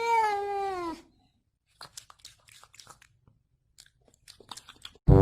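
A domestic cat meows once, a single call of about a second that rises and then falls, followed by faint scattered crunches and clicks like a cat chewing. Loud brass music cuts in at the very end.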